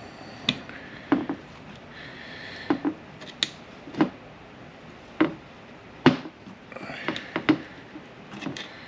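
Sharp metal clicks and taps of hand tools working on a manual transmission shift tower, coming irregularly about once a second, as a stubborn part is pried and worked loose.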